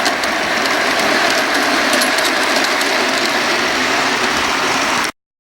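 G-scale model train on metal wheels rolling along outdoor track: a steady rushing noise with faint scattered clicks. It cuts off abruptly near the end.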